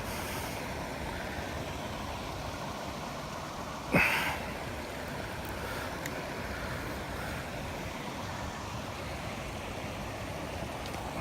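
Steady rushing outdoor noise, broken by one sharp, short hit about four seconds in.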